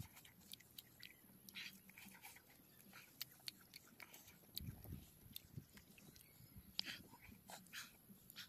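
Faint open-mouthed chewing of skewer-roasted meat: irregular wet smacks and small clicks from the mouth.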